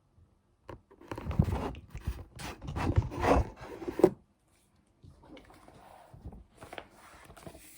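Irregular rubbing and scraping noises, louder for the first few seconds, then fainter.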